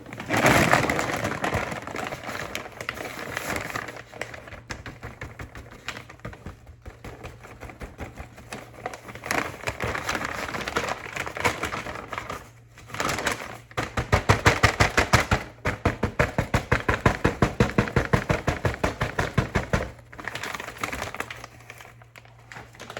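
Large paper bag of flour being emptied into a container: paper crinkling and flour pouring, then a run of quick, even knocks for about six seconds in the second half as the bag is worked empty. A low steady hum runs underneath through the middle.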